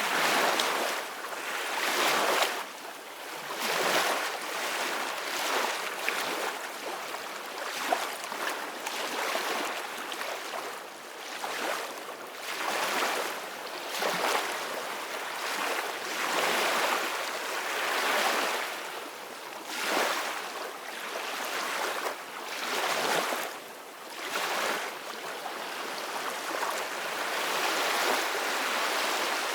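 Ocean waves breaking and washing on a shore, the surf rising and falling in swells every few seconds.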